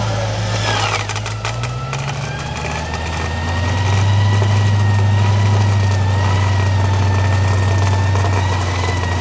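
Classic Range Rover engine running steadily and picking up load about three and a half seconds in, with a steady high whine over it, as the stuck vehicle is pulled on a taut winch cable. Brief clanking comes in the first two seconds.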